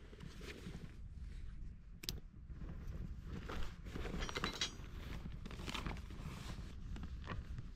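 Camping gear being handled while a campfire windscreen is set up: irregular rustling, with light clicks and clinks and a sharp click about two seconds in.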